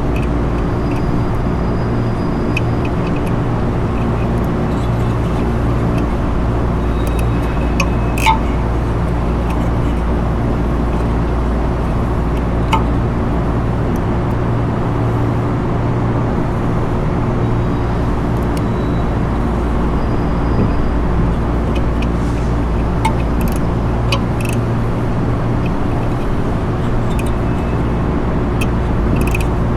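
Steady, loud hum of running rooftop machinery, several low tones held level throughout. A few brief metallic clicks and clinks come through it, from hand work on the exhaust fan's shaft and wheel.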